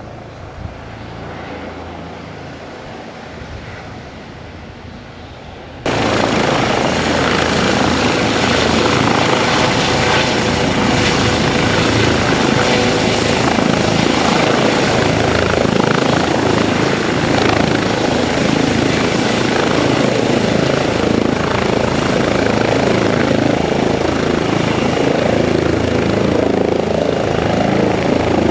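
Airbus H135 helicopter running, its rotor and engine noise steady with a thin high whine. The sound jumps abruptly much louder about six seconds in and stays loud.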